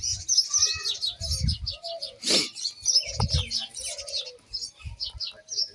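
Birds chirping in a continuous stream of rapid high notes, with some lower, softer calls. There are a few dull low thumps, and a brief rush of noise a little over two seconds in.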